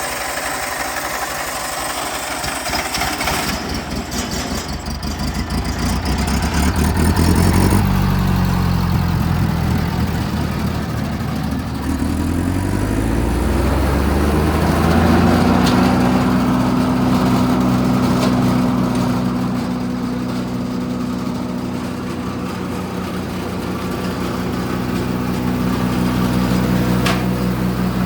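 Kohler gas engine of a Bandit Model 65 towable wood chipper running. About a third of the way in its pitch drops, then it climbs back up and settles into a steady run for the rest of the time.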